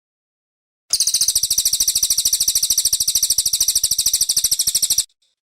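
Brown cililin songbird singing one high, rapid trill of about a dozen pulses a second. It starts about a second in and stops abruptly about four seconds later.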